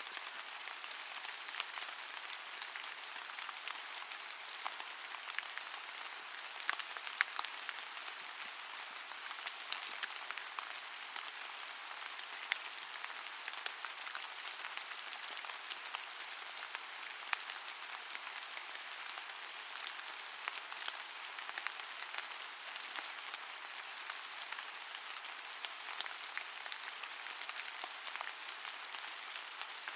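Steady rain falling, an even hiss with many separate drops ticking through it.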